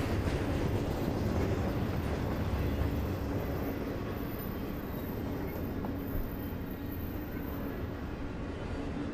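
CSX intermodal freight train's double-stack container well cars rolling past: a steady rumble of steel wheels on the rails, easing a little after about four seconds.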